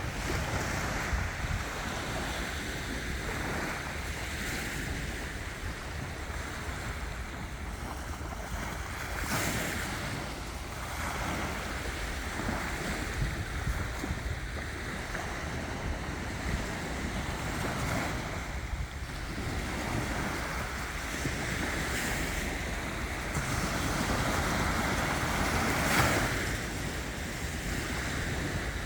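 Sea waves washing onto the shore, with wind rumbling on the microphone; the surf swells and eases, with a louder surge near the end.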